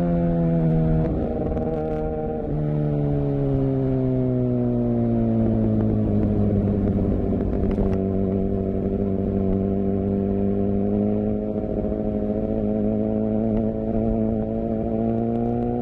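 Suzuki GSX-R750's inline-four engine and exhaust running steadily. About a second in, the note drops abruptly, then falls slowly, holds steady, and rises slightly near the end.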